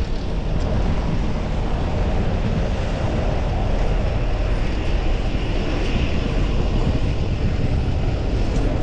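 Steady wind rumble on the microphone of a camera riding along on a moving bicycle, with road noise underneath.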